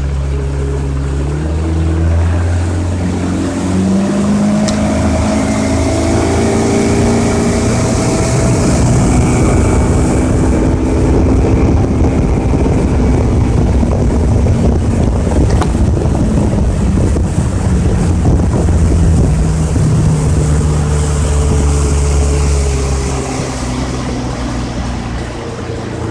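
Yamaha 115 hp two-stroke outboard motor opened up, its revs rising over the first few seconds as the boat climbs onto plane, then running hard with hull, water and wind noise. About 23 seconds in the throttle comes back and the engine note drops and quietens.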